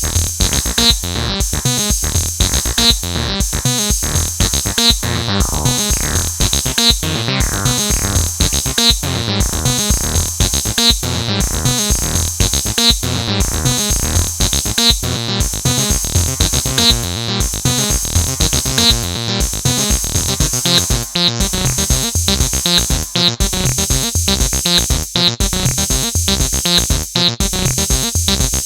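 Electronic acid music played live on AcidMachine: a fast, repeating synthesizer bassline sequence over a steady drum-machine beat, with a filter sweep about 5 to 9 seconds in.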